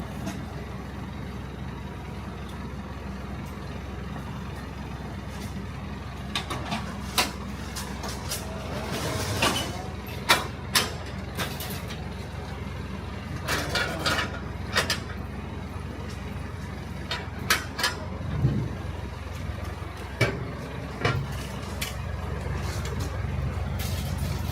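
A heavy vehicle's engine idling with a steady low hum, while sharp knocks and short bursts of clattering come at irregular intervals.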